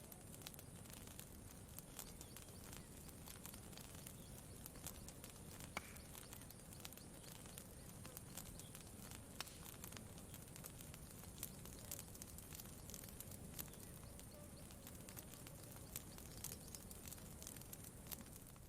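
Campfire crackling quietly, with scattered irregular pops and snaps over a steady low background.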